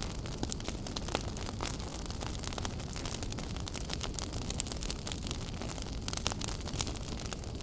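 Wood fire burning in a fireplace, crackling: many irregular sharp pops and snaps over a steady low rumble.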